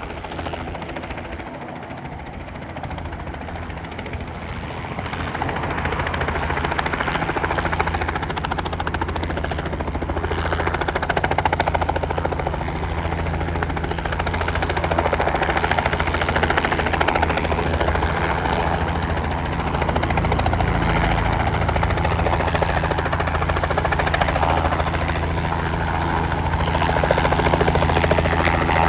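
Robinson R44 helicopter's rotor and piston engine running with a fast, steady rotor beat. It grows louder over the first several seconds as it comes closer, then holds steady.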